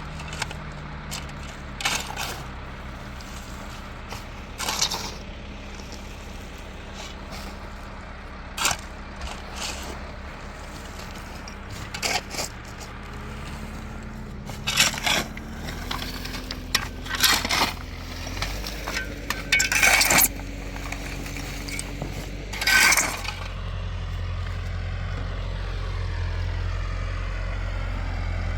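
A tractor engine running steadily, stepping up slightly in pitch about halfway and getting louder near the end, with irregular sharp metallic clinks and knocks scattered over it, the loudest in the second half.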